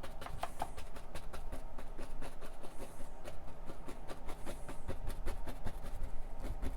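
Fan brush loaded with oil paint dabbing and tapping on a canvas, quick irregular taps several a second as gravel is stippled in.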